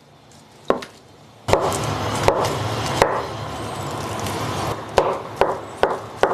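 Kitchen knife dicing tofu, its blade knocking on a cutting board in separate strokes, with a steady noise underneath from about a second and a half in.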